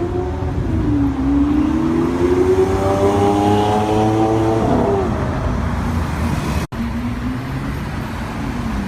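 Supercar engine accelerating, its note climbing steadily for about four seconds before the revs fall away. A sudden brief gap in the sound follows near the end, then a steady lower engine note.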